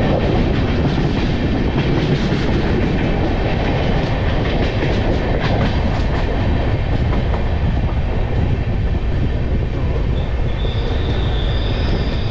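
Passenger express train running at speed, heard from an open coach door: a steady rumble of wheels on rail, with heavy wind noise on the microphone. A thin, high, steady squeal comes in near the end.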